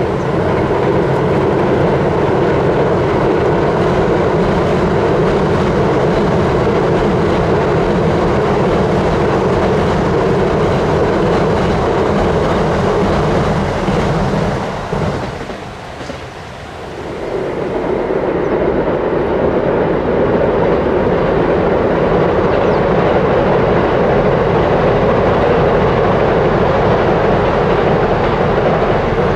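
Electric trains crossing a steel girder railway bridge, with a steady loud rolling noise and the clatter of wheels on the rails. First comes a new E353 series Super Azusa limited express. After a brief drop about halfway through, an orange-striped Chuo Line commuter train crosses.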